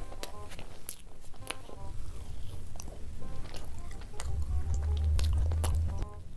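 Close-miked eating sounds of chocolate: sharp bites and crackly chewing, over light background music. A deep low hum swells about four seconds in and drops away shortly before the end.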